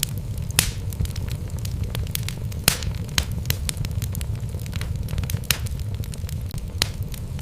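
Wood fire burning in a fireplace: a steady low rumble of flames with irregular sharp crackles and pops from the burning logs, the sharpest about a third of the way in.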